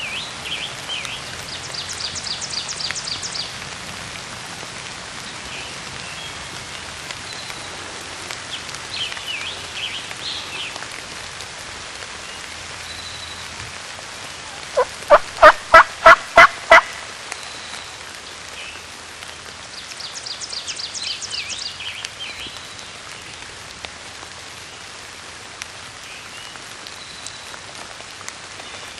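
Eastern wild turkey gobbler gobbling in steady rain. One loud, close gobble comes about halfway through, with fainter, higher calls near the start and again about twenty seconds in.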